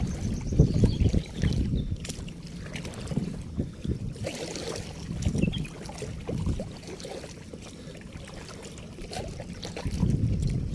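Kayak paddling on open water: paddle splashes in the water, one brighter splash about four seconds in, with wind buffeting the microphone in low, uneven gusts.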